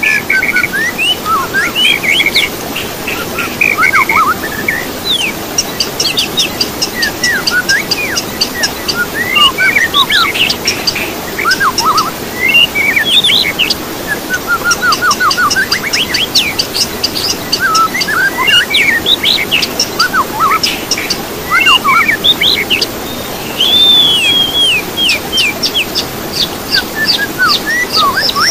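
Songbird singing a long, varied song of rapid chirps, trills and whistled notes that rise and fall, with brief pauses between phrases, over a steady hiss.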